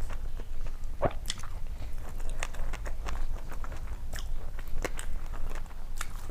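Close-miked chewing and crunching of crisp food, with irregular sharp crackles and a louder crunch about a second in.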